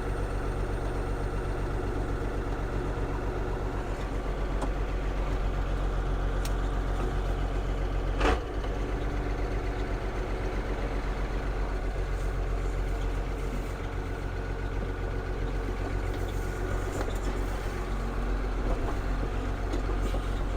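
Ford CF7000 truck's 6.6L Brazil diesel idling steadily while it builds air pressure for the air brakes. About eight seconds in there is one brief, sharp sound over the engine.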